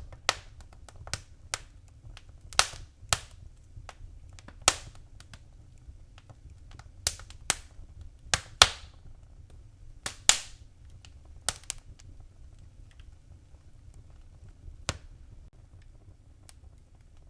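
Fire burning in a fireplace, crackling with sharp, irregular pops and snaps over a faint low rumble. The pops come thick and fast for the first twelve seconds or so, then grow sparse.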